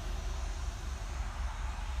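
Freight train passing: a steady low rumble under an even rolling noise.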